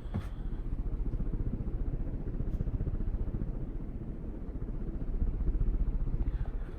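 52-inch Turn of the Century Energy Select ceiling fan running: a low, steady whir with a rapid, even pulsing.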